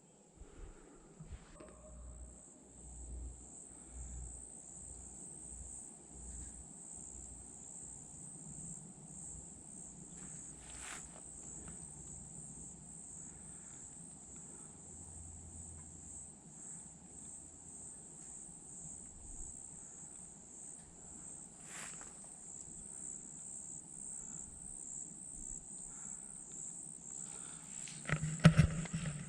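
Steady, high-pitched, finely pulsing chorus of insects, with soft low thumps in the first seconds and a louder clatter of knocks near the end.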